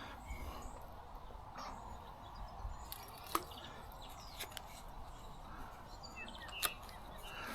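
Faint outdoor ambience with a few short bird chirps and two sharp clicks, one about three seconds in and one near the end.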